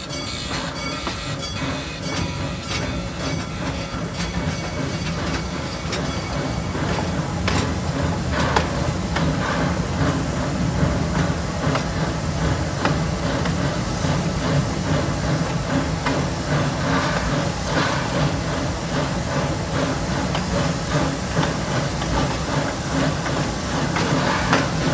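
Steam train of the Tommy G. Robertson Railroad running up a grade: a steady rumble and steam hiss with irregular clicks and knocks from the wheels and cars, growing slightly louder.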